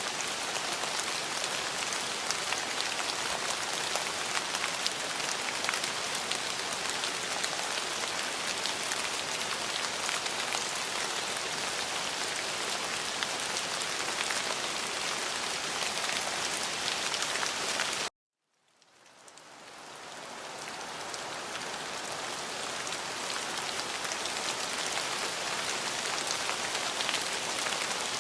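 Steady rain falling on a surface, a dense patter of drops. About eighteen seconds in it cuts out suddenly, then fades back up over a few seconds.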